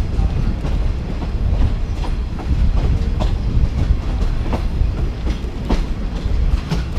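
A passenger train running along the track, heard from inside the carriage: a steady low rumble with irregular sharp clacks of the wheels over the rail joints.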